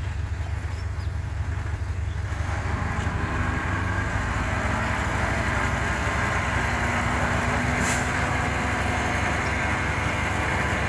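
Bulldozer's diesel engine running steadily, getting louder and fuller about two seconds in. A brief sharp tick comes about eight seconds in.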